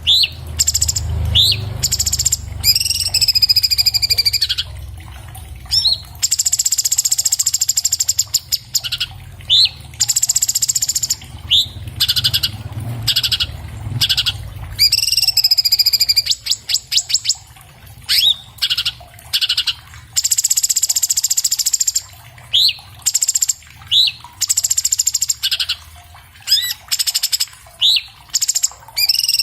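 Orange-bellied leafbird (cucak cungkok) singing a fast, dense song: sharp rising whistled notes mixed with long, rapid high trills, phrase after phrase with only short gaps. A low rumble sits under the first half.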